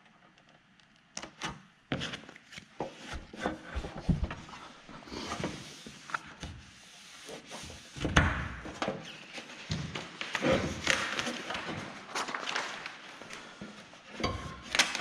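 Hands-on work noises: a short hush, then scattered taps and knocks, with bouts of rubbing from about five seconds in.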